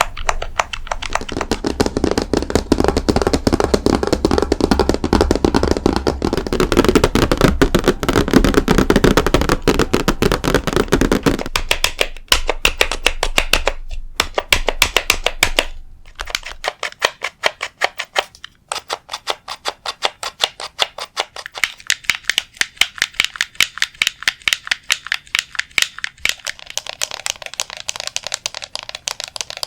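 Rapid, continuous ASMR tapping on objects close to the microphone, many taps a second. For about the first twelve seconds the taps are deeper and fuller; after that they turn thinner and brighter, broken by a few short pauses.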